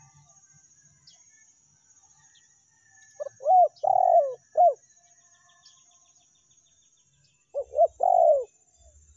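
Spotted dove (tekukur) cooing, used as a lure call: two phrases of short, hoarse coo notes, the first about three seconds in and the second near the end, each with one longer note in the middle.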